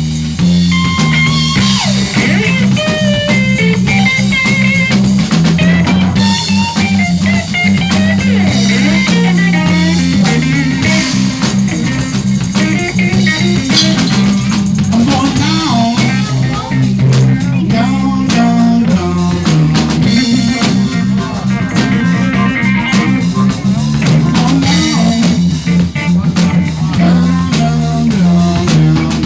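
Live band playing a blues-rock jam: an electric guitar bending notes over a bass guitar line and a drum kit, with no vocals.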